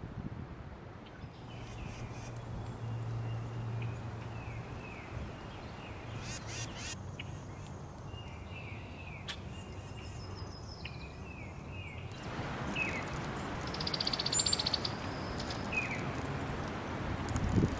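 Brown-headed cowbirds calling: runs of short falling chirps, then a high whistled phrase about two-thirds of the way through.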